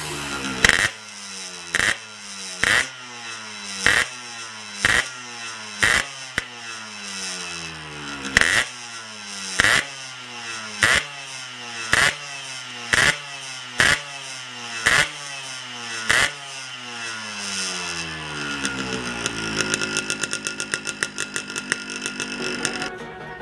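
Yamaha RX Special's two-stroke single-cylinder engine revved in sharp throttle blips about once a second, each rev falling back toward idle. Near the end it settles into a steadier idle.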